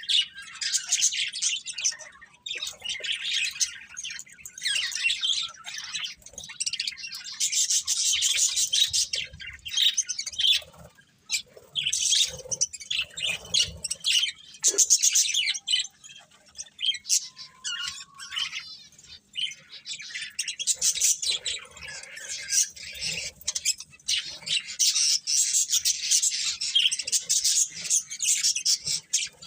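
Budgies chirping in a rapid, continuous chatter, with brief lulls about eleven and nineteen seconds in.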